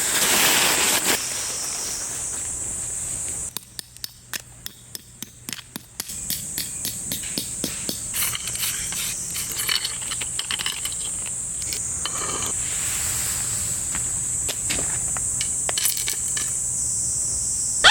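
Steady high-pitched drone of summer insects, with a run of sharp knocks and clicks through it. The drone drops out for a couple of seconds about three seconds in, leaving the clicks spaced evenly, then returns.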